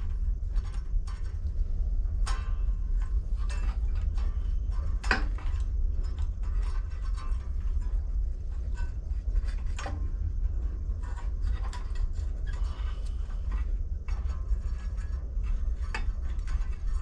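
Scattered light metal clicks and ticks as small carburetor linkage springs and parts are handled and worked loose, over a steady low hum.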